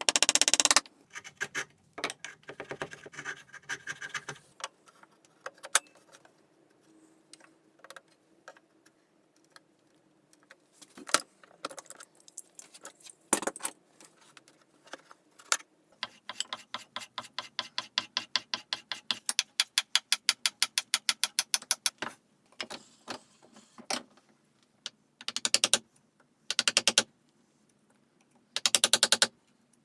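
Hand-tool work on wood: short bursts of sawing, scattered clicks and taps of tools on wood, and a run of quick, even strokes about halfway through.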